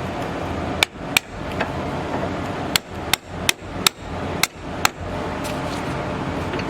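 A hammer striking metal on the front suspension, about eight sharp ringing blows spread over four seconds: two, then a quicker run of five or six.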